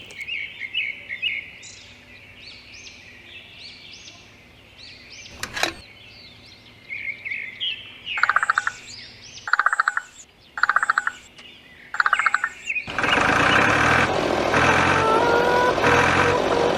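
Small birds chirping repeatedly, then four short, fast trills about a second apart. About thirteen seconds in, a much louder, steady mechanical noise with a slowly rising whine starts and drowns out the birds.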